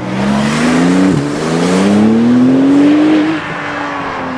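A car engine accelerating hard: the revs climb, drop sharply at an upshift about a second in, then climb again before the driver lifts off about three seconds in and the note falls away.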